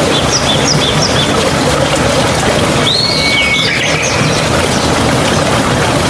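Steady rush of flowing stream water, with wild birds calling over it: a quick run of short high chirps in the first second or so, then another call with a held whistle about three seconds in.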